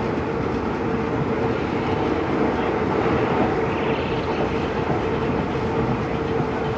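EMD WDP4B diesel locomotive and train running, a steady rumble with an even hum throughout; no horn sounds.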